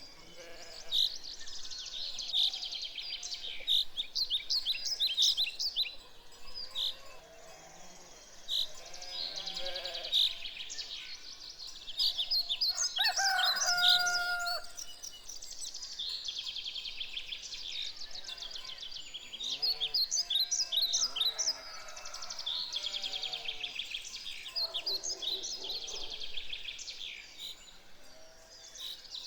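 Songbirds chirping and singing continuously in rapid trills, with scattered lower calls from farmyard fowl. About 13 seconds in, a chicken gives one held call lasting about a second and a half.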